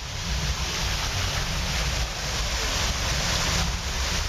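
Heavy torrential rain pouring down in a steady hiss, with wind buffeting the microphone as a low, uneven rumble.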